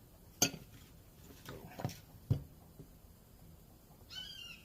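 A few sharp knocks of wooden workpieces being handled and set down on a workbench. Near the end a bird starts a repeated chirping call.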